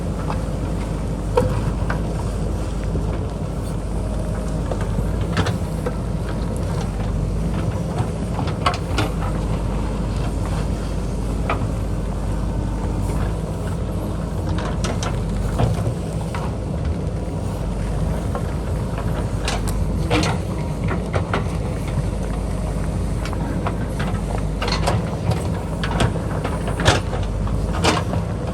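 JCB backhoe loader's diesel engine running steadily under load, with irregular sharp knocks and clanks of digging work scattered throughout.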